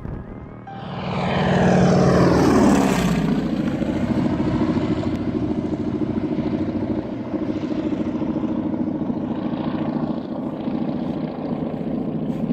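Propeller airplane engine. About a second in, its pitch drops steeply over a couple of seconds, like a plane passing close by, then it settles into a steady drone.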